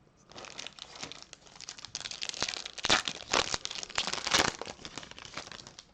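A trading card pack's wrapper crinkling and tearing as it is handled and ripped open, a dense run of crackles for about five seconds.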